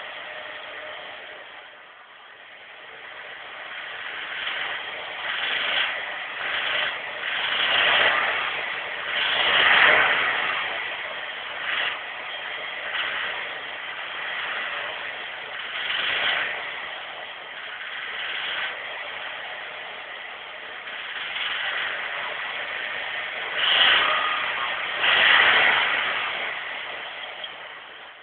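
Nissan SR20DE 2.0-litre four-cylinder engine idling and being revved again and again in short blips, the loudest about a third of the way in and near the end. The owner hears a knocking noise that starts from about 2000 rpm when it is revved, cause unknown.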